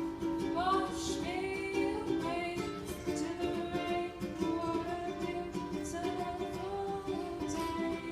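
A woman singing a slow song live over a strummed acoustic string instrument, its chords ringing steadily beneath the voice.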